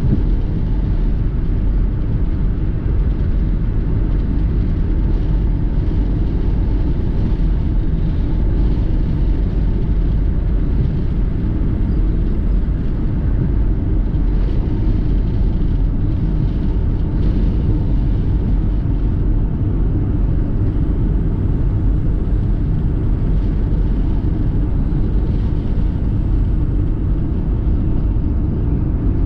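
Steady low rumble of a car being driven, with engine and road noise running evenly throughout.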